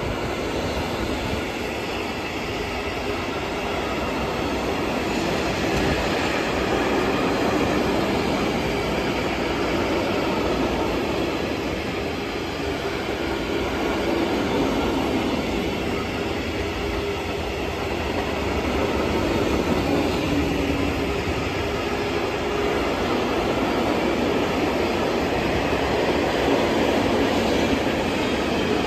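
Freight train of tank wagons rolling past: steady rumble and rattle of steel wheels on the rails, with thin ringing tones from the wheels running through it.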